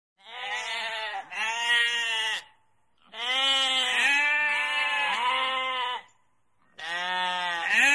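Sheep bleating: three long bleats with short pauses between them.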